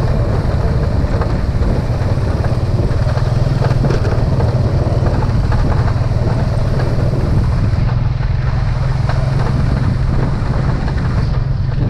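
Motorcycle engine running at a steady pace while the bike is ridden, with road and air noise over it.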